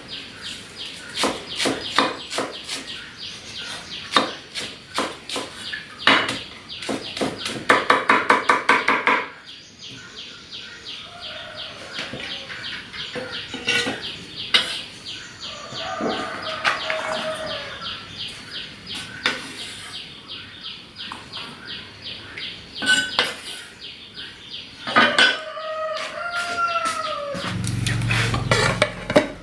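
Repeated sharp knocks and clicks, including a quick even run of about six knocks a second a little before the middle, mixed with a few short calls that rise and fall in pitch, likely from a chicken.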